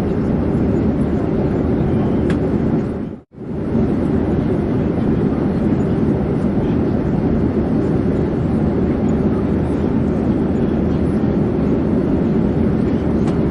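Steady drone of an airplane in flight, an even rumble with no change in pitch. It drops out for a moment about three seconds in, then resumes at the same level.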